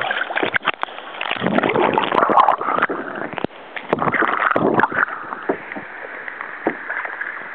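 Kayak paddle strokes splashing in river water, swelling twice in surges of water noise, with scattered sharp knocks.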